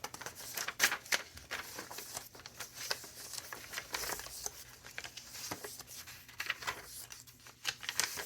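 Paper pages of a thick handmade junk journal being turned and handled: a run of rustles and crinkles, with a few sharper crackles.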